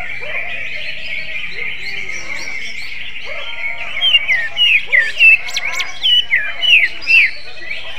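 Cucak ijo (green leafbird) singing: from about four seconds in, a run of loud, sharp notes, each sliding down in pitch, over a steady background of bird chatter.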